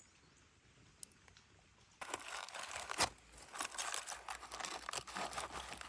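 Aluminium foil crinkling and rustling as it is handled, in irregular bursts that start suddenly about two seconds in after a near-silent start.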